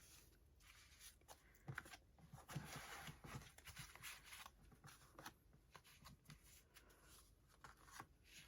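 Near silence with faint rustling and light taps of handmade paper cards being handled, busiest about two to three seconds in.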